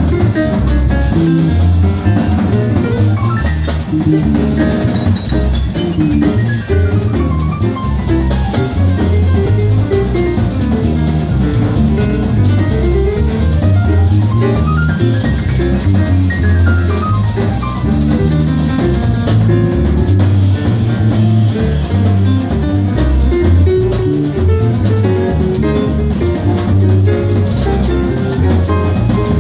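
Jazz band playing, with a prominent bass line under a drum kit and fast melodic runs sweeping up and down.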